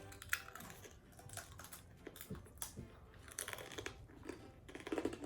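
Someone chewing and crunching a chocolate-covered fortune cookie: faint, irregular small crunches.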